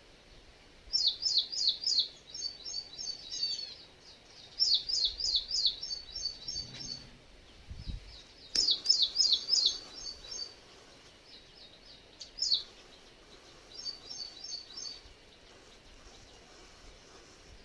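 A songbird singing: about four phrases with short pauses between, each a run of four or five quick, high, downward-sliding notes followed by a faster string of short chirps.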